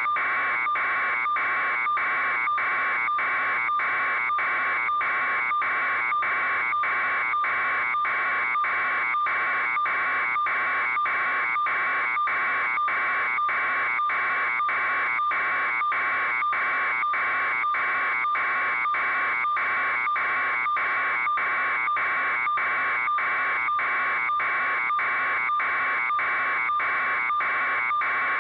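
Electronic alarm buzz pulsing steadily about twice a second, with a harsh tone at a constant loudness throughout.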